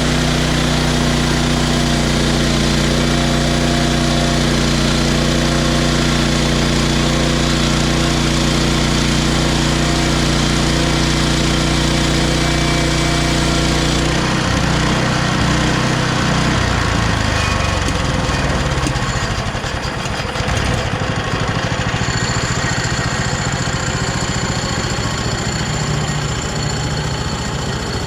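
Engine of a Hudson HFE30 portable bandsaw mill running steadily. About halfway the steady note breaks up into a rougher, noisier sound, and a high thin whine comes in during the last few seconds.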